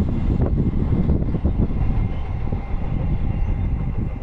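Train running close by on the rails: a loud, steady low rumble of wheels with many small irregular clanks.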